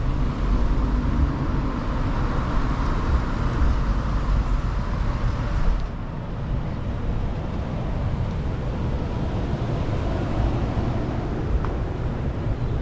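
Street traffic noise with a steady low rumble. The sound drops a little about six seconds in.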